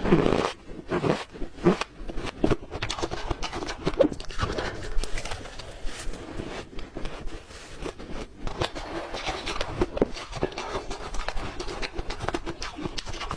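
A person biting and chewing ice close to the microphone: repeated irregular crunches and crackles, loudest right at the start and in a few sharp bites in the first five seconds.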